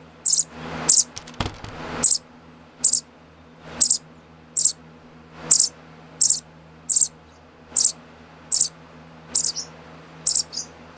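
Baby sparrow chirping over and over while being hand-fed, short high peeps about one every three-quarters of a second. A brief rustle of handling about a second in.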